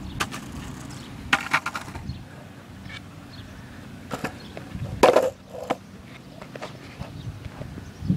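Longboards knocking and clattering as they are handled or set down on the pavement, with a few separate sharp clacks. The loudest clack comes about five seconds in.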